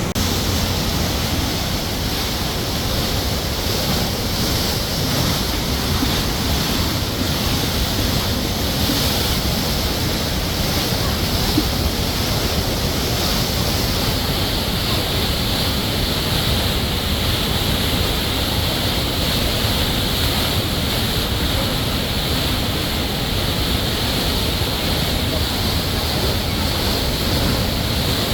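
Spring water rushing and splashing in a steady stream.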